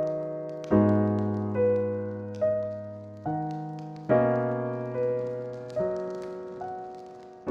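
Slow, gentle piano music: single notes and soft chords struck about once a second, each ringing and fading before the next. Faint crackles of a wood fire run beneath.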